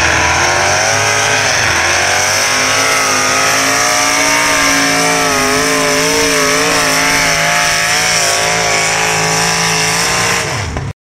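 Big competition engine running loud at high revs, its pitch wavering up and down with a steady high whine above it. It stops abruptly near the end.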